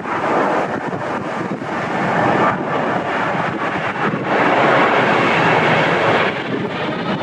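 Strong wind blowing across the microphone, a steady rushing noise that swells in two gusts, the second and louder from about four to six seconds in.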